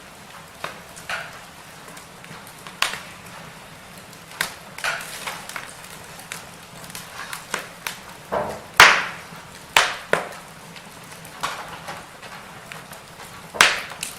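Burning firewood crackling: irregular sharp pops and snaps over a steady low hiss of the fire, with a few louder cracks in the second half.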